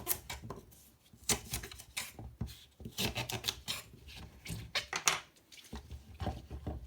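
A kitchen knife cutting the ends off rhubarb stalks: irregular crisp slicing sounds and knocks of the blade, with some rubbing and scraping between them.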